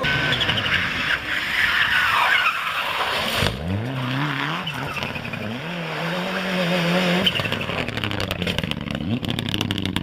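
Rally car tyres skidding, then after an abrupt change a rally car engine revving up and running at high revs, with rapid crackling near the end.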